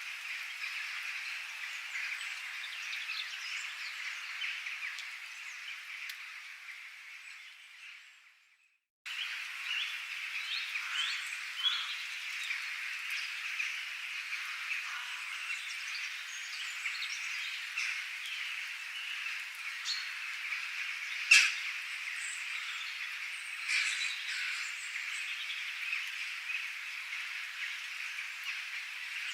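A dense outdoor chorus of chirping birds over a steady, high-pitched wash of calls. It fades out about eight seconds in and goes silent for a moment, then a new chorus of chirping birds starts abruptly, with one sharp, louder click a little past the twenty-second mark.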